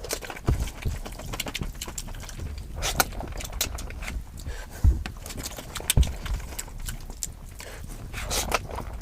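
Close-miked eating sounds: wet chewing with many quick mouth clicks and smacks, a couple of low knocks, and two longer slurping noises, about three seconds in and near the end.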